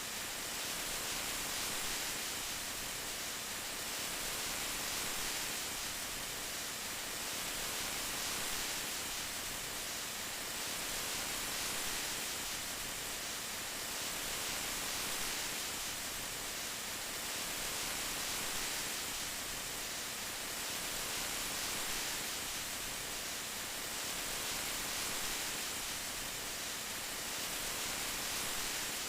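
Steady rain: an even hiss of falling drops, swelling and easing gently every few seconds.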